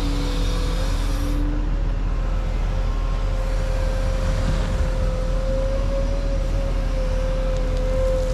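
Bulldozer's diesel engine running steadily under load, a deep rumble with a steady high whine held over it.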